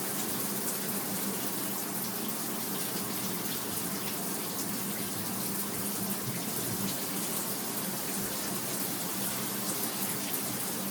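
Water running steadily from a newly hooked-up shower, with the hot and cold both turned on.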